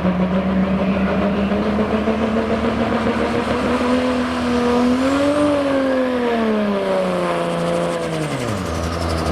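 Diesel pulling vehicle's engine running hard under load down the track, its pitch lifting a little midway, then dropping sharply near the end as it comes off the throttle, with a high whine that slides down with it.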